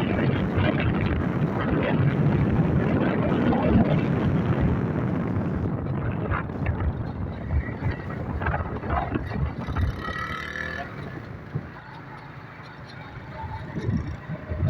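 Wind rushing over the microphone over a Yamaha YBR motorcycle's engine while riding. The rush eases off after about six seconds, and a brief pitched tone sounds about ten seconds in.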